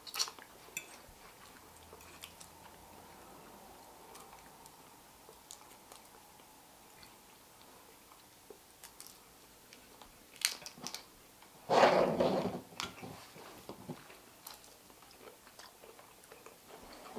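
Quiet eating sounds of two people chewing shrimp and fish, with scattered small clicks. A sharp click comes about ten seconds in, followed by a louder noisy burst of about two seconds.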